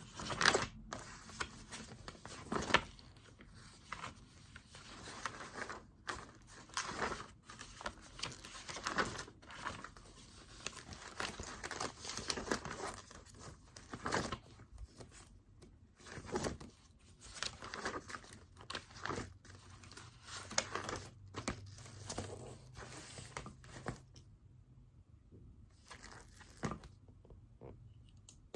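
Paper rustling and crinkling as things are handled on a desk, in irregular short strokes.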